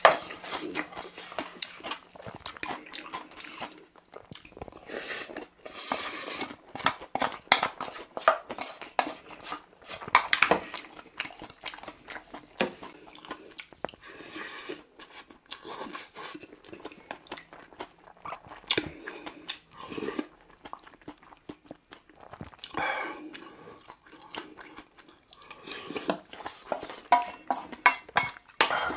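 Close-up chewing of a mouthful of bibimbap, with irregular crunches and short clicks of the wooden spoon in the brass bowl.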